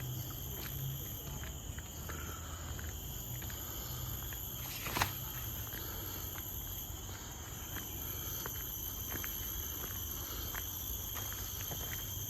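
Forest insects shrilling steadily at several high pitches, with light scattered footsteps and one sharper click about five seconds in.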